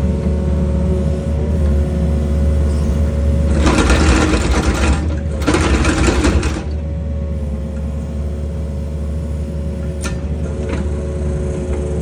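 Excavator engine and hydraulics running steadily with a constant hum while drilling pier holes with an auger, broken by two loud rushing bursts a little past the middle.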